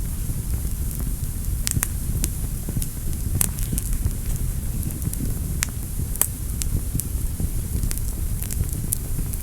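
Wood fire burning in a fireplace: a steady low rumble of the flames with scattered sharp crackles and pops, the loudest about three and a half and six seconds in.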